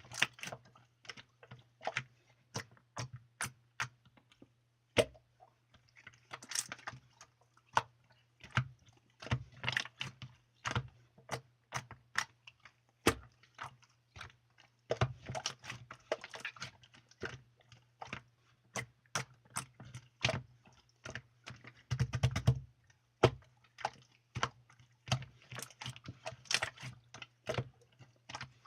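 Irregular sharp clicks and crackles, some single and some in quick clusters, over a faint steady low hum.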